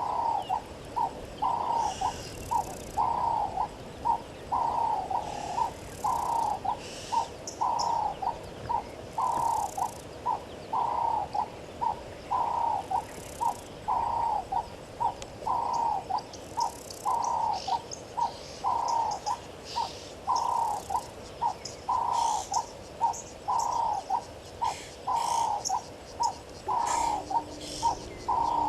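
A bird calling in a low, cooing phrase of short and longer notes, repeated without a break, with faint high chirps of other small birds.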